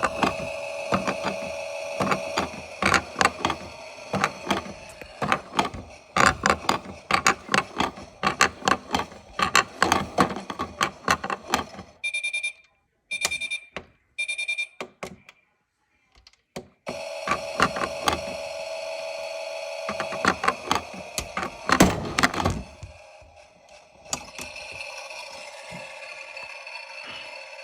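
Clicks and knocks from handling a machine, then about four short, high electronic beeps from the control panel of a Miele appliance, with a steady machine hum in other stretches.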